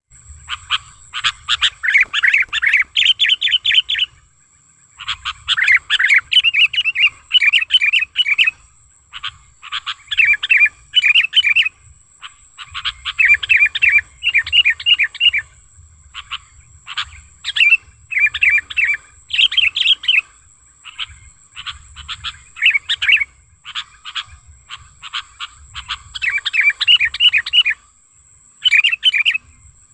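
Sooty-headed bulbul (kutilang) singing: phrases of quick repeated notes lasting one to four seconds, with short pauses between them. A faint steady high-pitched tone runs underneath.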